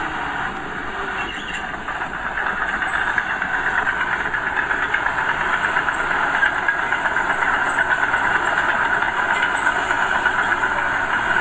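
Diesel engine of a small bulldozer or dump truck running with a steady knocking clatter, growing a little louder about two seconds in.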